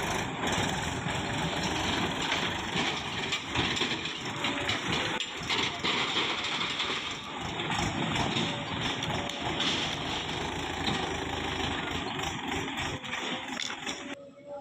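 Heavy diesel engine running steadily at work, cutting off abruptly near the end.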